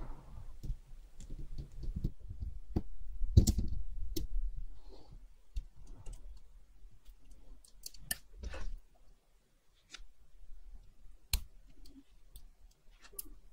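Irregular small clicks and taps of tools and small watch parts being handled on a bench, with a cluster of louder knocks about three to four seconds in.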